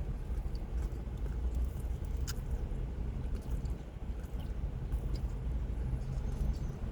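A person chewing a bite of sandwich, with faint small mouth clicks over a steady low rumble.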